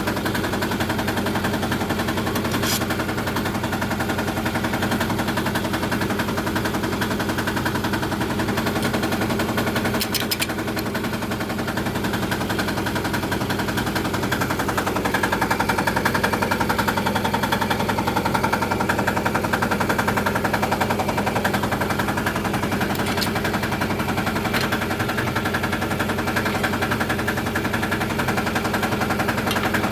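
Small engine running steadily with a rapid, even chugging.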